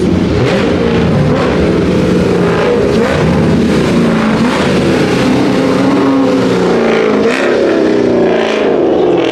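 Several muscle-car engines running at once as cars roll in, their pitch rising and falling with light revving over a steady rumble.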